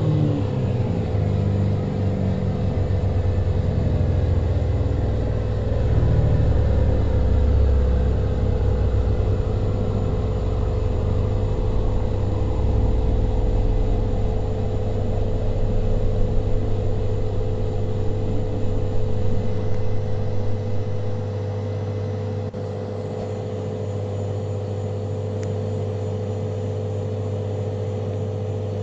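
Washing machine during a spin cycle, played in reverse. A motor whine falls steadily in pitch over the first dozen seconds while the drum rumbles and thumps, then it settles into a steady hum.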